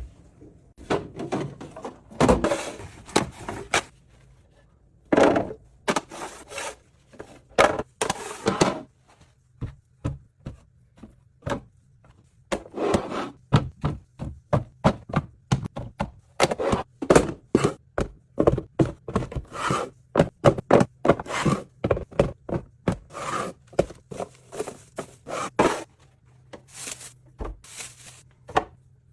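Food containers, jars and packaging being set down on refrigerator shelves and in its bins: an irregular run of thunks, knocks and clicks, busiest from about a third of the way in, with a few longer rubbing noises as items slide into place.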